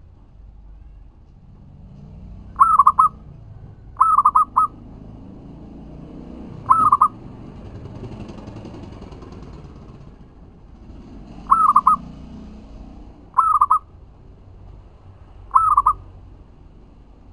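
Zebra dove (local perkutut) cooing: six short call bouts at irregular gaps, several made of two or three quick notes.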